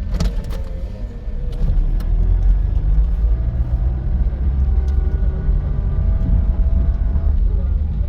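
Motor vehicle running, with a loud low rumble and engine tones that slowly rise and fall in pitch. There are a few light knocks in the first two seconds.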